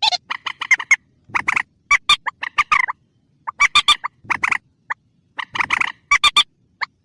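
Mandar, a bird of the rail family, calling in clusters of short, harsh repeated notes with brief gaps between them: a recorded call played back as a hunting lure.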